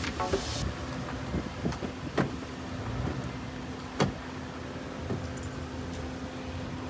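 Steady low mechanical hum with a low rumble, broken by a few sharp clicks about two and four seconds in.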